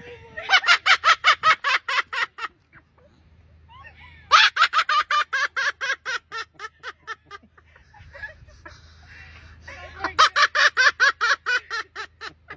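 A bird laughing: three bouts of rapid, evenly spaced 'ha-ha-ha' notes, about five a second, each bout lasting a couple of seconds.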